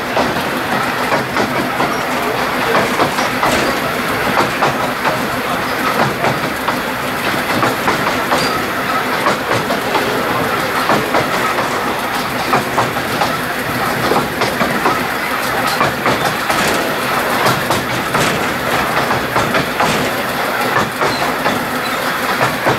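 Narrow-gauge train running steadily along the track, its wheels clattering and clicking over the rail joints.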